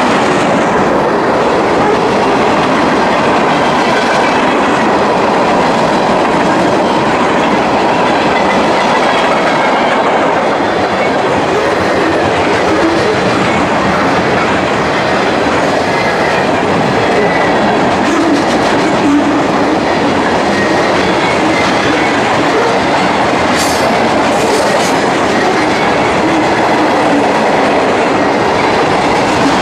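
Cars of a mixed freight train rolling past close by, the steel wheels running on the rails in a loud, steady rumble and clatter.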